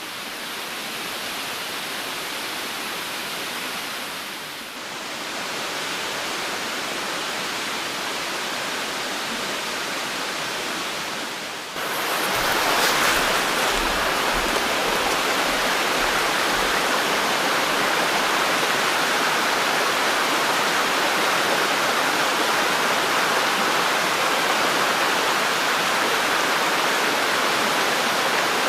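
Steady rushing noise like running water, with no speech. It steps louder at two sudden changes, about 5 s and 12 s in.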